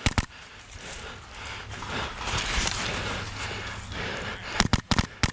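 Airsoft rifle firing: two quick sharp shots at the start, then a rapid string of about five shots near the end. A noisy rustle fills the gap between them.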